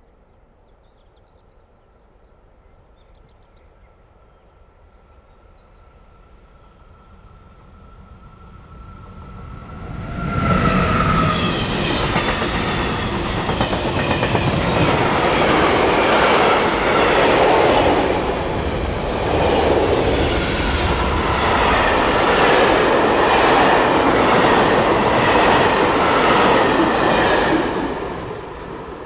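Freight train passing: a faint rumble and a thin steady whine build for about ten seconds. Then the train goes by loud, with the rhythmic clatter of the wagons' wheels on the rails. It falls away near the end.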